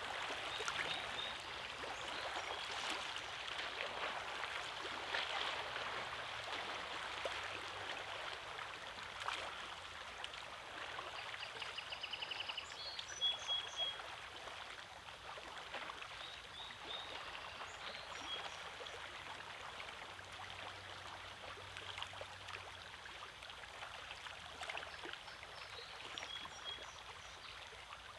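Small lake waves lapping and splashing steadily against a rocky shore, with a few short, faint high bird calls now and then.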